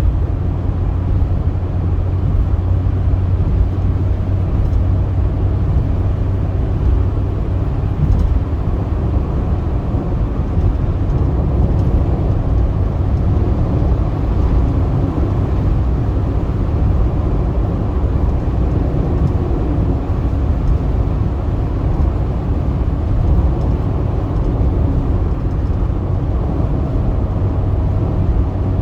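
Car driving at speed on a highway: a steady low rumble of road and engine noise, with no distinct events.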